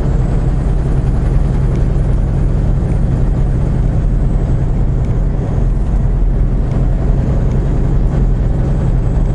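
Steady, low road and engine noise inside a semi truck's cab at highway speed.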